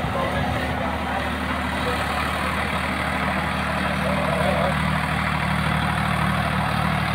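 Sonalika RX 50 4WD tractor's diesel engine running steadily at a constant speed.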